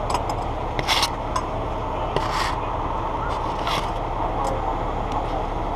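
Truck engine running steadily, with a few short scrapes and clicks over it.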